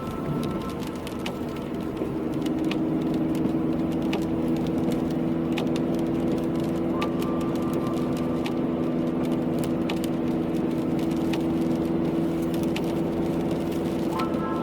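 Car driving in the rain: a steady engine and road hum that grows a little louder about two seconds in, with scattered light clicks of raindrops.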